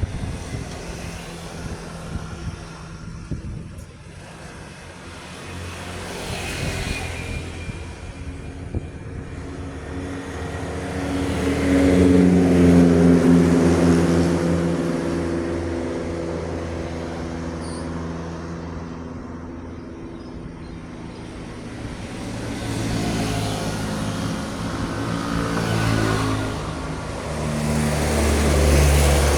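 Heavy tractor-trailer trucks passing on a road, their engines running with a low pitched drone. It swells to its loudest about twelve seconds in as one goes by, fades, and builds again near the end as another approaches.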